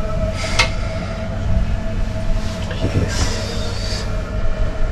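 Steady low rumble of a train carriage with a constant hum, heard in the small toilet compartment, with a sharp click about half a second in.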